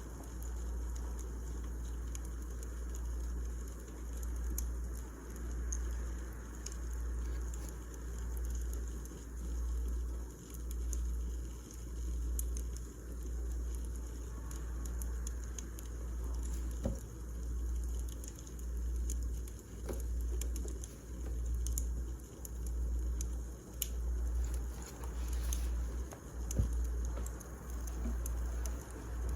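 Wood fire burning, with scattered sharp crackles and pops over a low rumble that swells and fades about every second and a quarter.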